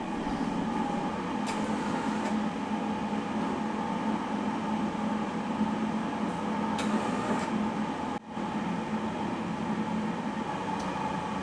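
A steady mechanical hum with a couple of held tones and a few faint clicks, cutting out briefly about eight seconds in.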